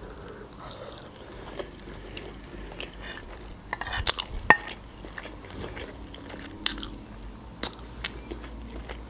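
Close-miked chewing and biting of a soft chicken cutlet, with a few sharp clicks of a metal fork against a plate about four seconds in and again later.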